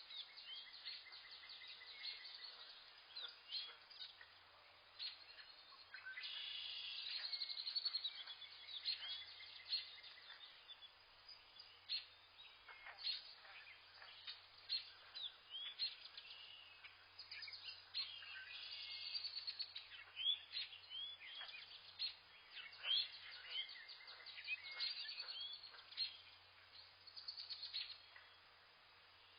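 Several forest birds chirping and calling together, a dense mix of short chirps and quick falling whistles, busiest about a third of the way in and again past the middle.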